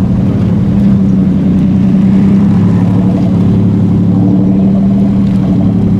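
A car engine running loud and steady at low revs, its low drone holding an even pitch.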